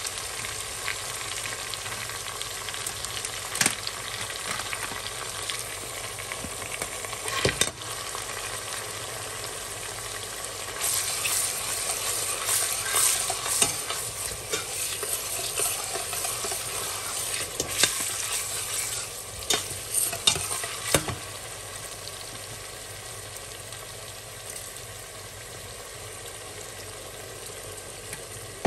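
Onions, peppers and tomato sizzling in oil in a stainless steel pot, with a steady hiss. A metal spoon stirs and scrapes the pot, busiest in the middle, with a few sharp knocks of the spoon against the pot.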